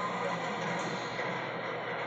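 Garbage truck's machinery running with a steady, unbroken mechanical noise.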